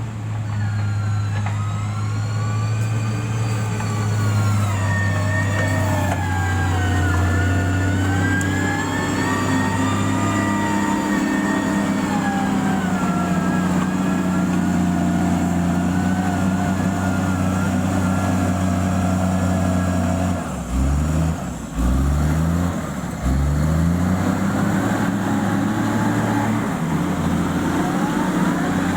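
Heavy road-building equipment's diesel engine running steadily, with a whine above it that slowly rises and falls. About two-thirds of the way through, the engine note drops and climbs back three times in quick succession, then settles.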